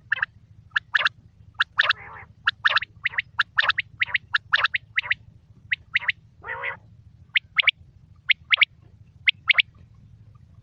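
Quail calling: a quick run of short, sharp notes, mostly in pairs, with two longer rasping notes mixed in, over a faint steady low hum.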